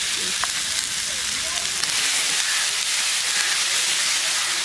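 Onion and spice masala sizzling in hot oil in a metal kadai while freshly added red chilli paste is stirred in with a metal spatula. A steady, even sizzle with a few light spatula clicks against the pan.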